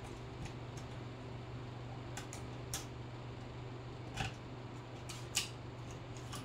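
Scattered sharp clicks and light taps of small hard objects being handled, about seven in all, the loudest a little over four and five seconds in, over a steady low hum.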